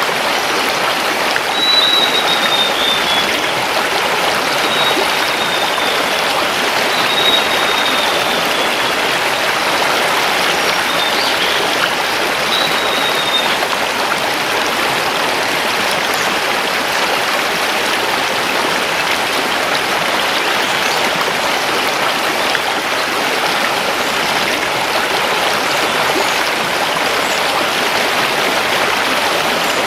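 Mountain river rushing over stones in a steady, full wash of water. A forest bird sings four short, high, slightly falling phrases in the first half.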